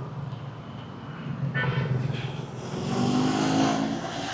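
Street traffic: vehicle engines running past, with a brief high-pitched sound about one and a half seconds in and a louder engine passing close, its pitch rising, about three seconds in.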